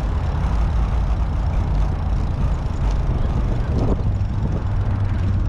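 Steady low rumble of road traffic and wind on an action camera's microphone.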